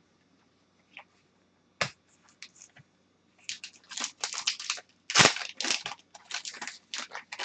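Trading cards and their plastic or foil packaging being handled: a few separate clicks, then from about three and a half seconds in a busy run of crinkling and scraping.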